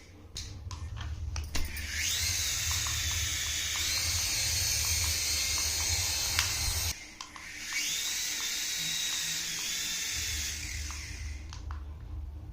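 Small electric motor of a remote-control toy whirring: it spins up with a rising whine about two seconds in and runs steadily. It cuts off around seven seconds, then spins up again a second later and fades near the end.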